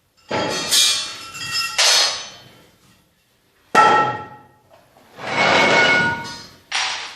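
Metal gym weights clanking as they are handled: a series of sharp metallic knocks with short ringing tails, and a longer clatter about five seconds in.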